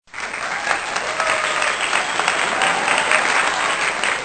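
A crowd applauding steadily, many hands clapping at once, starting abruptly.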